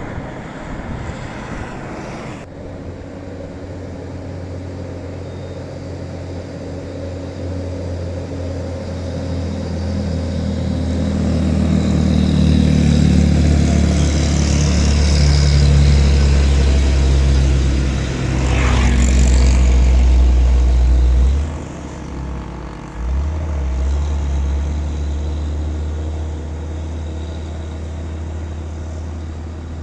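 Diesel truck engine pulling hard up a hill, growing louder to a peak as the truck comes past, then fading. Twice, a little after 21 seconds in, the engine sound briefly cuts out and comes back.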